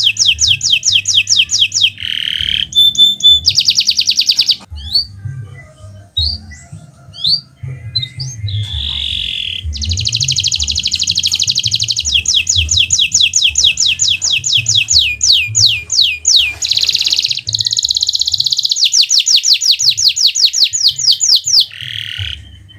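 Kenari Nusantara canary singing in full song: long, fast trills of rapidly repeated notes, broken a few seconds in by a stretch of scattered single chirps before the trilling resumes and runs on unbroken.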